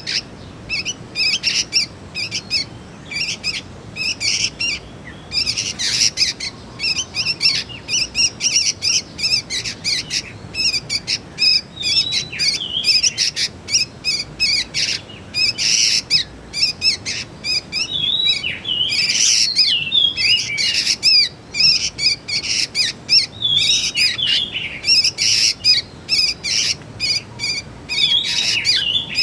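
Juvenile sooty-headed bulbuls calling: a fast, continuous run of short, high chirps, several a second, with brief falling notes mixed in.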